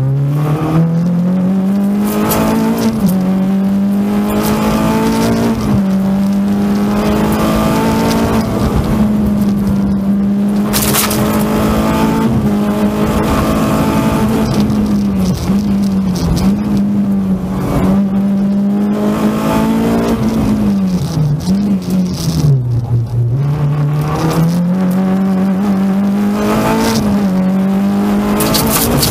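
Renault Clio 16V rally car's four-cylinder engine heard from inside the cabin, driven hard: the pitch climbs and drops back repeatedly through the gears, with a deep drop in revs a little past the middle before it pulls up again. A few sharp knocks sound over the engine.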